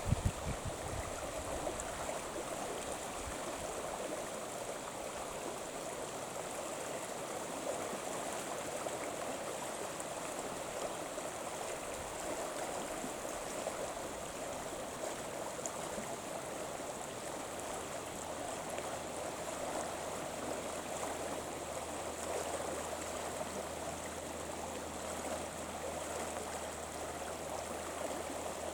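Steady rush of flowing river water, an even noise with no clear breaks.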